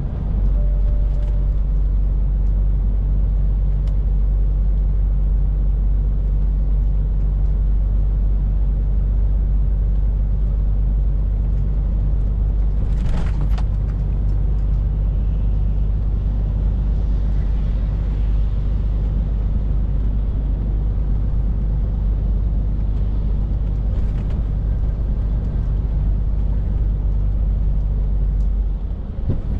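Scania R450 lorry's 13-litre straight-six diesel running steadily on the road, a constant low drone with road rumble. A short hiss breaks in about 13 seconds in.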